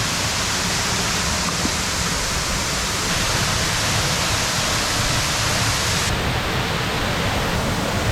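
Jungle waterfall: a steady, even rush of falling water.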